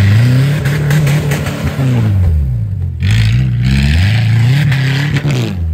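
Off-road 4x4 engine revved hard, its pitch rising and falling twice. Over it run a hiss and scattered clattering knocks from the vehicle working over rough ground.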